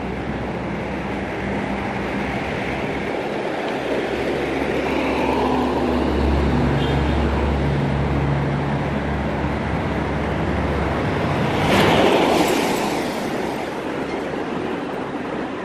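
Street traffic passing close by: a heavy vehicle's low engine rumble builds and holds for several seconds, then a short, loud rush of noise comes about twelve seconds in.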